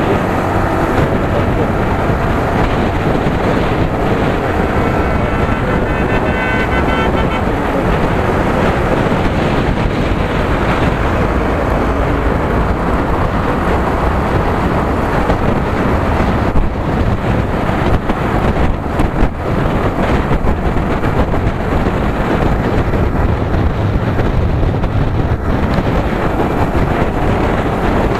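Wind buffeting the microphone and road noise from a Yamaha R15 V3 motorcycle under way. A vehicle horn sounds for about three seconds, starting about four seconds in.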